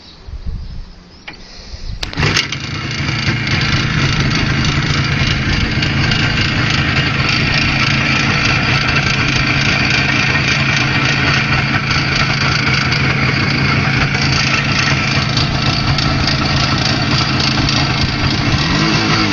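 IZh Jupiter-5 motorcycle's two-cylinder two-stroke engine starting, catching about two seconds in and then idling steadily, revving up briefly at the very end. The freshly rebuilt engine is being run in, and the owner hears a strange knock from the left cylinder.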